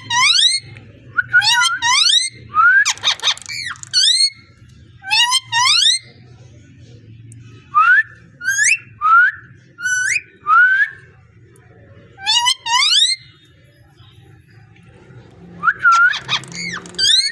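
Pet parrot whistling: short, sharply rising whistle notes in quick clusters, with a harsher call about three seconds in and a pause of a couple of seconds past the middle.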